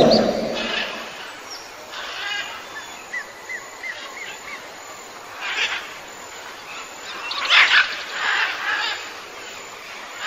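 Outdoor ambience with small birds chirping, including a quick run of four short rising chirps about three seconds in, and several brief noisy rustling bursts.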